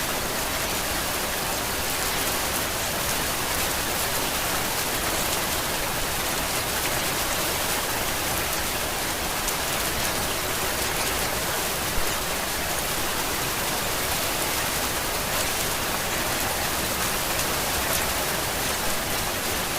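Steady, even rainfall: a dense hiss of many drops with scattered ticks, and one sharper drop or tap about twelve seconds in.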